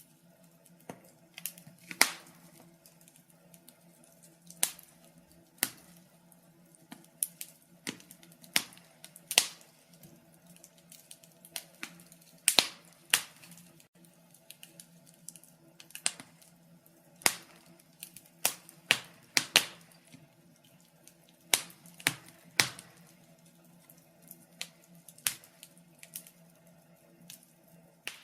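Wood fire crackling: sharp pops and snaps at uneven intervals, often one or two a second, over a faint steady low hum.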